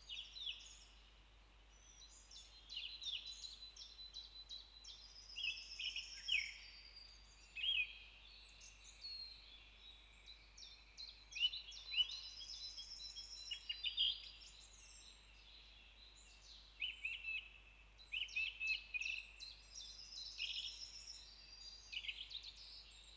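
Forest birdsong: several small birds chirping and singing in short, high phrases with quick falling notes, repeating every second or so over a faint hiss.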